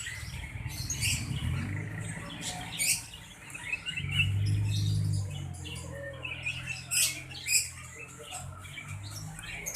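Sirtu bird calling excitedly ('gacor emosi'): a run of short squeaky chirps and calls, louder about 7 and 7.5 s in, over a steady low hum.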